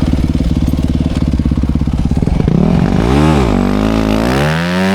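Dirt bike engine idling steadily, then revved: one quick blip about three seconds in, followed by a longer rise in revs held near the end.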